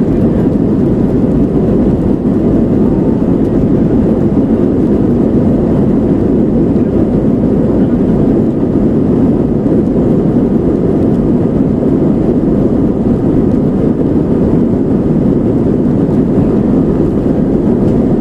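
Airbus A320-200ceo on its takeoff roll, heard from inside the cabin: engines at takeoff thrust as the airliner accelerates down the runway. The noise is steady and loud, mostly low in pitch.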